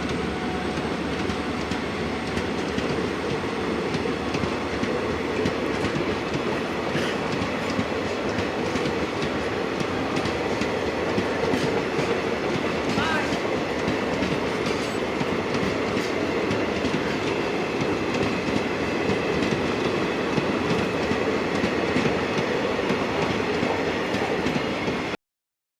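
A train running along the track, its wheels clattering over rail joints in a steady run of clicks. It cuts off suddenly near the end.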